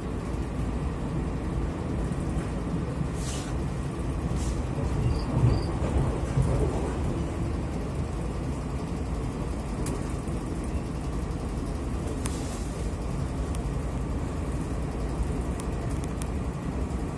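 Steady low rumble of a Taiwan Railways passenger train running along the line, heard from inside the carriage, with a couple of louder knocks about five and six seconds in.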